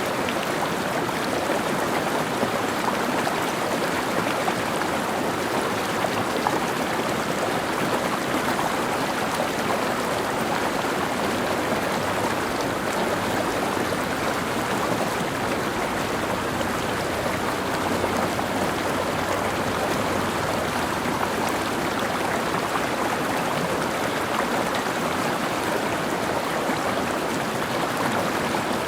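Mountain stream flowing over rocks: a steady rushing and gurgling of water that holds at one level.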